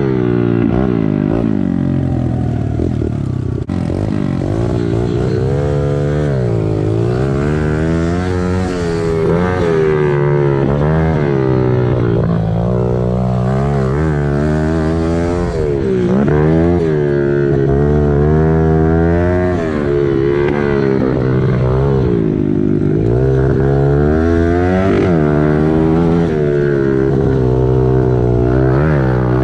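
Small single-cylinder four-stroke pit bike engine being ridden hard, its revs rising and falling again and again as the throttle is opened and shut through corners and gear changes.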